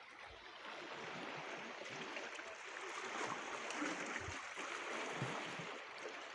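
Sea water washing at the shore: a steady, even hiss that swells slightly and eases, with a few faint low thuds.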